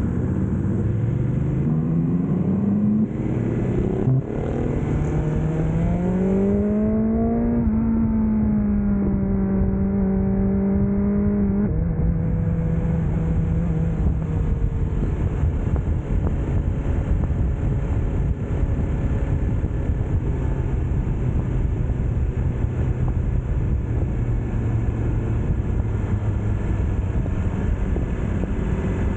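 BMW S1000R's inline-four engine accelerating through the gears, its note climbing with breaks at shifts about three and four seconds in, then holding a steady cruise and settling to a lower steady note about twelve seconds in, over constant wind and road rush.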